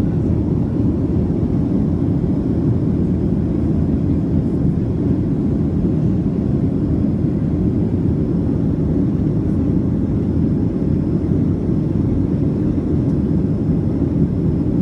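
Steady in-flight cabin noise of a Boeing 737: the even rush of engines and airflow heard from inside the cabin, with a faint high steady tone.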